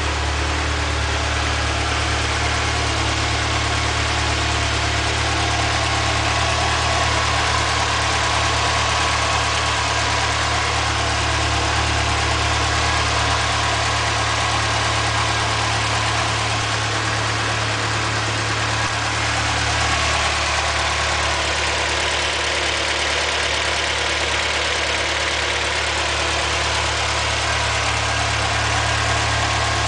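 Toyota 4A-GE 1.6-litre twin-cam inline-four in an AE86 Corolla, fitted with a TRD header and no airbox, idling steadily.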